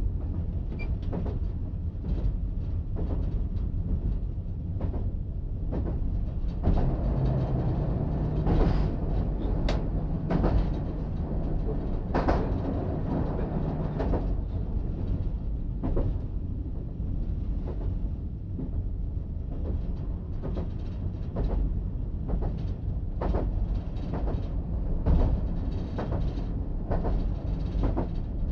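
Diesel multiple unit running along the line, heard from the cab: a steady low rumble with irregular clicks and knocks from the wheels over the track.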